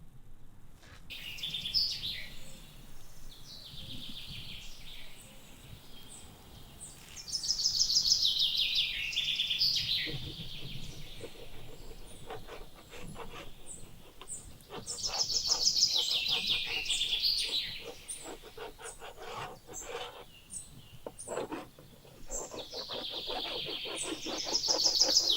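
A songbird singing the same falling phrase, about two and a half seconds long, three times at roughly eight-second intervals, with other faint chirps and scattered short clicks in between.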